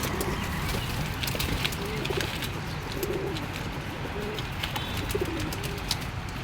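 Domestic pigeons cooing: short, low, warbling coos repeated every second or so over a steady low background rumble, with scattered sharp clicks.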